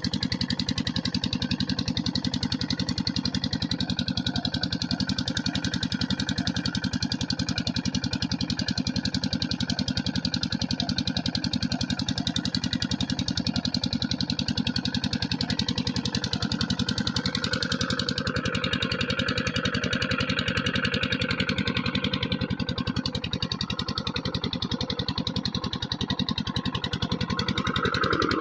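Water pump engine running steadily, with an even, rapid beat.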